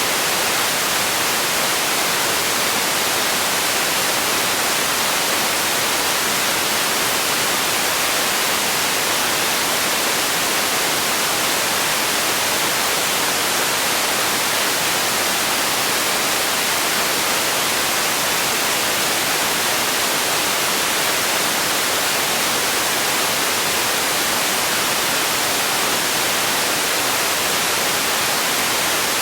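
Steady synthetic noise played as a sleep and relaxation sound: a constant, unchanging hiss, strongest in the high end and thin in the bass.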